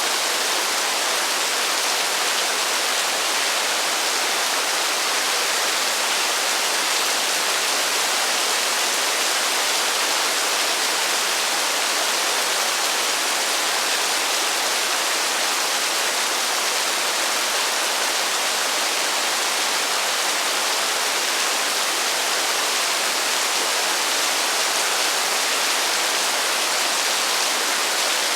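Heavy rain falling steadily as an even, unbroken hiss, with no thunder and no separate drops standing out.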